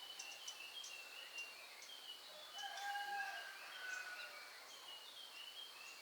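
Faint chickens calling: many short, high peeping chirps throughout, with one longer, lower call about three seconds in.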